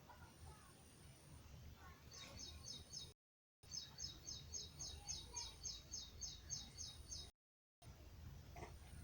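A small bird chirping in a fast, even series of high chirps, about four a second, over a low rumble of wind or handling noise. The sound cuts out completely twice, for half a second each time.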